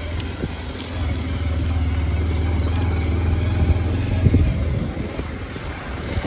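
Two-wheeler engine running steadily at low speed, with a few knocks as it rides over a rough dirt road.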